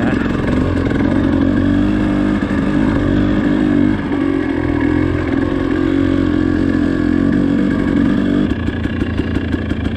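Dirt bike engine running while riding. Its note changes about four seconds in and again near the end.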